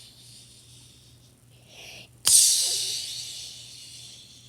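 A person's mouth making a sharp hissing "pshh" noise, a vocal imitation of a Wublin monster's sound. It starts suddenly about two seconds in and fades away over roughly two seconds.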